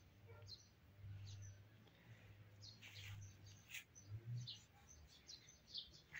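Faint small-bird chirping: short, scattered high chirps and tweets, several a second at times, over a faint low hum.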